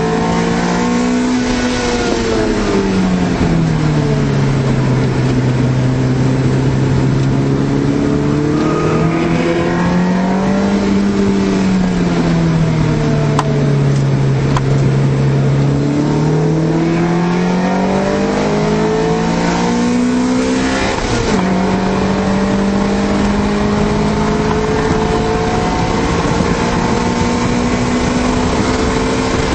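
1991 Honda Civic hatchback's four-cylinder engine heard from inside the cabin, its revs falling and rising again and again as the car is driven hard. About two-thirds of the way through the pitch drops suddenly as it shifts up, then climbs slowly again.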